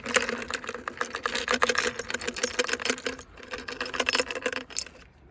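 Small trinkets rattling and clicking against each other and the container as hands rummage through a geocache, a rapid clatter that dies away near the end.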